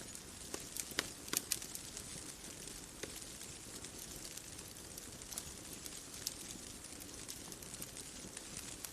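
Wood fire crackling, with sharp pops and snaps scattered over a soft steady hiss, a quick cluster of louder pops about a second in.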